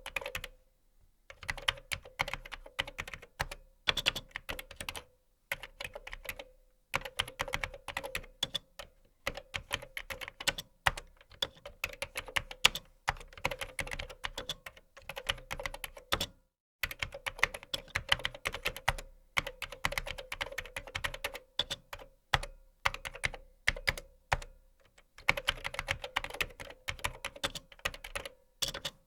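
Fast typing on a computer keyboard: dense runs of key clicks in bursts of a few seconds, broken by short pauses.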